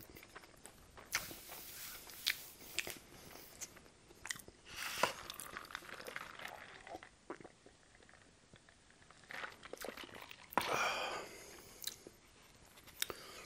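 Close-miked chewing of a mouthful of burger, with scattered soft crunches and clicks, and a sip from a fountain-drink cup about halfway through.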